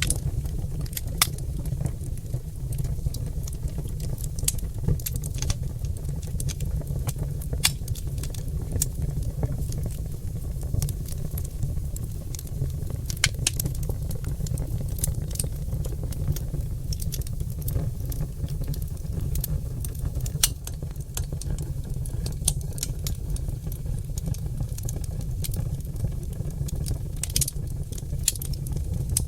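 Oak logs burning in a fireplace, crackling with irregular sharp pops and snaps over a steady low rumble.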